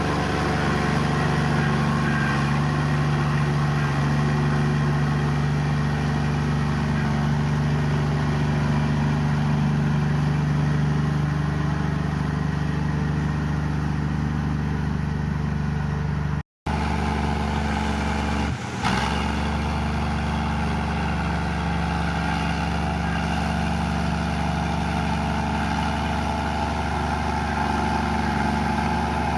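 Komatsu bulldozer's diesel engine running steadily under load while pushing mud. The sound cuts out for a moment about halfway through, and there is a short knock a couple of seconds later.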